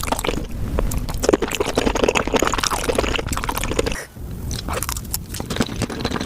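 Close-miked wet chewing and biting of raw shrimp: sticky, smacking mouth clicks, denser at first and quieter from about four seconds in.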